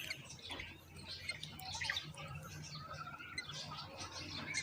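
Mynas chirping: a busy run of short, high chirps, with a longer wavering call about three seconds in.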